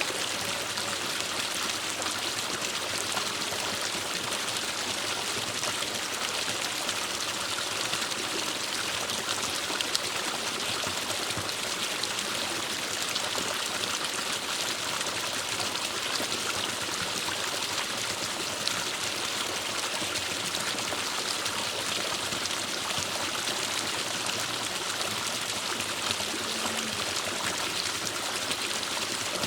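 Forest stream running over rocks, a steady rush of flowing water.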